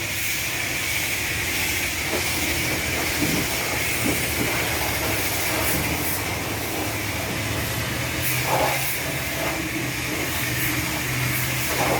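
Car wash spray wand jetting water with a steady hiss, over a steady low hum.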